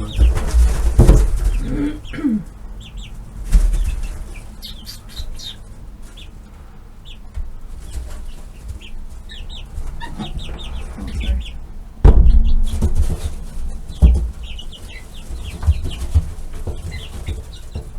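Young chickens peeping and clucking, many short high chirps scattered throughout. Loud low thumps and rumbles break in about a second in and twice near two-thirds of the way through.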